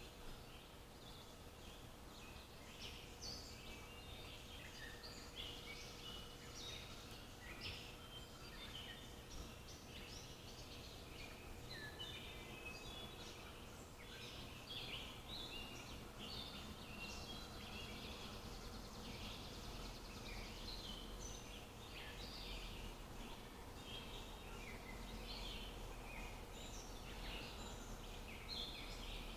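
Several small birds chirping and calling without a break, faint, over a quiet background hiss and a low steady hum.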